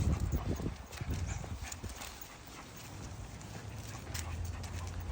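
Footsteps and dogs' paws tapping on a footpath while walking, with a steady low rumble underneath; the tapping is heaviest in the first second.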